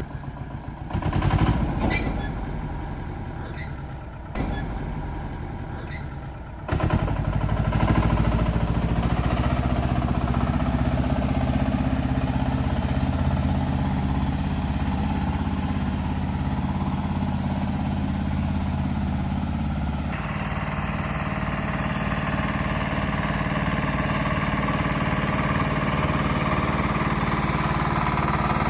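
Backhoe loader's diesel engine running, with several sharp clanks in the first few seconds, then a steadier, louder run from about seven seconds in.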